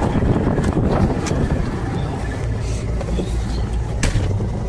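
Tow truck engine idling with a steady low rumble, wind buffeting the microphone, and a few sharp knocks, the loudest about four seconds in.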